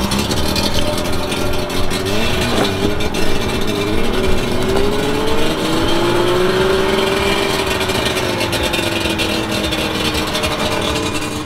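Suzuki Jimny SJ10's three-cylinder two-stroke engine running just after starting, blipped a few times about two seconds in, then pulling with its pitch rising slowly and easing lower near the end as the Jimny is driven off.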